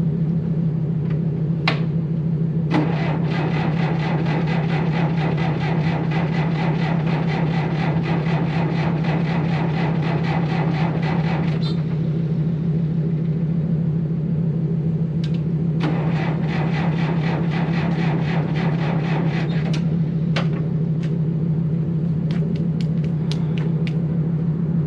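John Deere 450 bulldozer's diesel engine being cranked by its starter on a weak battery and failing to catch: two attempts, one of about nine seconds and a shorter one of about four, over a steady low hum. Sharp clicks come between and after the attempts, several in quick succession near the end.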